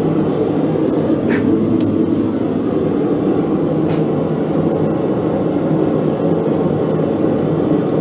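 Blacksmith's forge running: a steady, even rushing noise of the fire and its air supply while steel heats in it.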